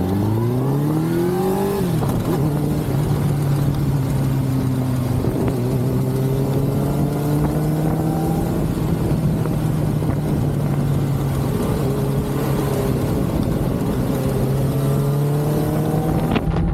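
Suzuki GSX-R motorcycle engine pulling away, its note rising over the first couple of seconds, then holding at steady revs while cruising. Wind rush is heard throughout.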